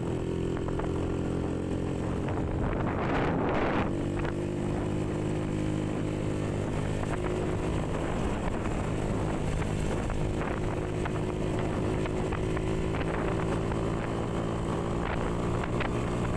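Motorcycle engine running at a steady cruise while riding, with wind on the microphone. About three seconds in, a brief louder whoosh swells and fades.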